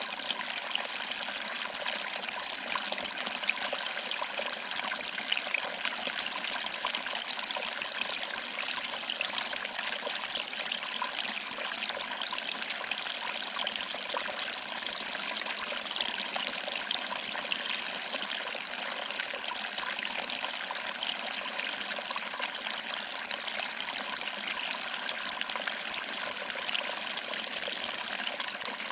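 Small waterfall: water trickling and splashing over rocks into a pool, a steady, even rush with fine splashy detail.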